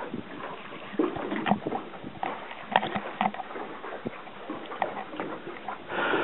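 Water sloshing and splashing against a small boat, with irregular knocks and clunks.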